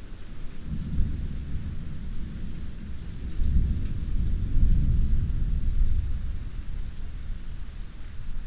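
Heavy rain falling steadily, with a long low roll of thunder that swells about a second in, peaks midway and slowly dies away.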